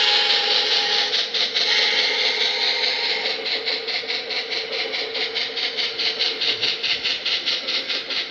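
Model B&O EM-1 2-8-8-4 steam locomotive's sound running: rhythmic exhaust chuffs, about five a second, over a steady hiss as the train pulls along.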